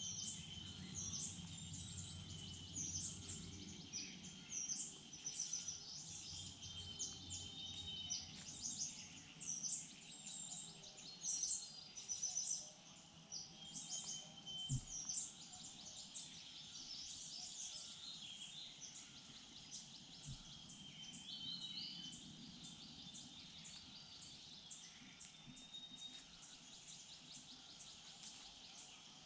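Small birds in the surrounding woodland chirping, with runs of rapid high notes repeating over and over, against a steady outdoor background hiss. Two brief low knocks come around the middle.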